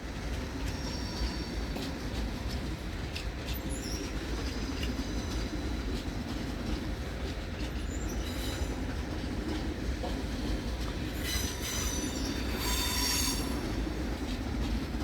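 An ICE 4 high-speed trainset rolling slowly into the station under a steady low rumble, with high-pitched wheel squeals about a second in and again, louder, near the end.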